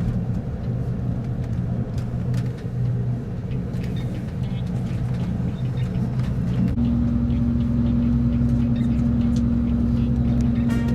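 Steady low rumble of a moving vehicle. About seven seconds in, a steady low hum comes in and holds.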